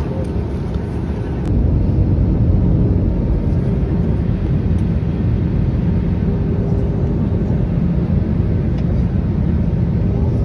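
Cabin noise inside an Airbus A319 airliner in flight: a steady low rush of airflow and engine noise with a faint hum. It gets a little louder about one and a half seconds in and then holds steady.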